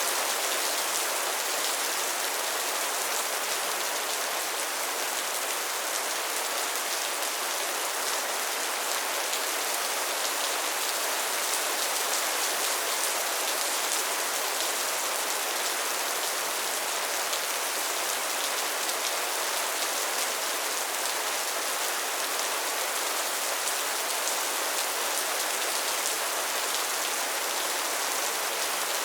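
Steady rainfall: an even hiss of rain with fine drops pattering on a surface, with no change in strength.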